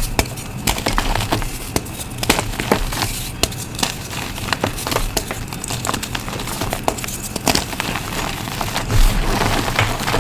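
Reformed gym chalk pieces being crushed, giving a dense run of irregular crunches and sharp cracks, several a second, over a dusty crumbling hiss.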